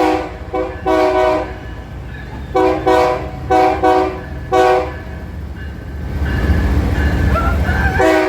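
Locomotive air horn sounding a series of short blasts: one at the very start, one about a second in, three quick ones around three to five seconds, and another near the end. Beneath them runs the train's steady low rumble, which grows louder a little after six seconds.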